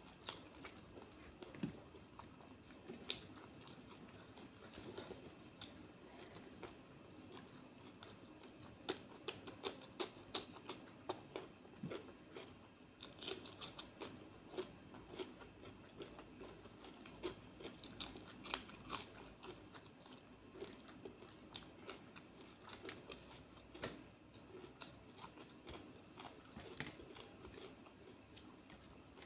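Close-miked eating by hand: chewing and crunching a mouthful of rice with masala shrimp, with many short wet clicks and smacks. Fingers gather rice on the plate between mouthfuls.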